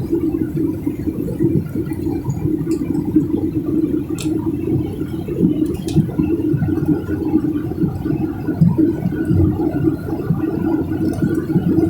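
Steady low noise inside an airliner cabin in flight: the engines and air rushing past the fuselage, with a few faint clicks.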